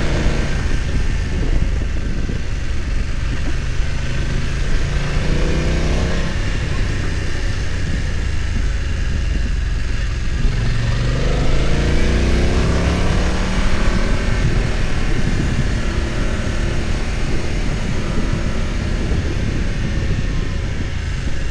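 BMW F900 XR's parallel-twin engine running under way, its pitch climbing as it revs up three times: near the start, about five seconds in, and again around eleven to thirteen seconds in.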